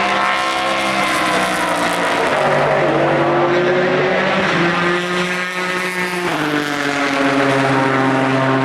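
Endurance racing cars' engines running at speed past the track, their engine notes climbing and stepping in pitch with gear changes, then falling sharply about six seconds in.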